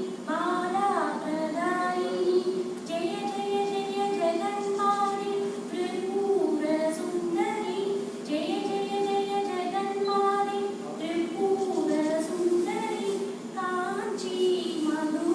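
Children singing a devotional prayer song together in long held notes that glide between pitches, over a steady drone.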